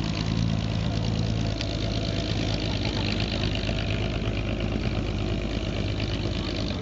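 1953 Chevy 3100 stepside pickup's engine running steadily. Its low note is strongest for about the first second and a half, then evens out.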